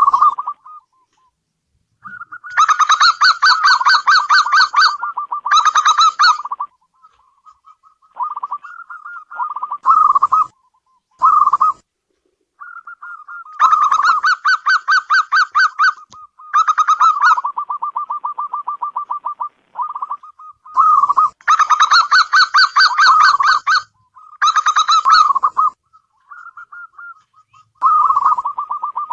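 Zebra dove (perkutut) cooing: repeated bouts of rapid pulsed coos lasting a second to a few seconds each, with quieter trilling coos in between.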